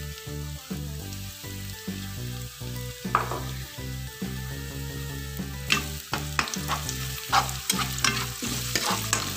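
Sliced shallots and crushed garlic sizzling in hot oil in a wok. From a little past halfway, a metal spatula stirs them, scraping and clicking against the pan.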